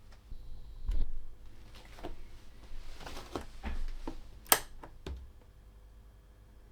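A series of clicks and knocks from handling the Armstrong 626 receiver and working its controls to switch it on, with the sharpest click about four and a half seconds in.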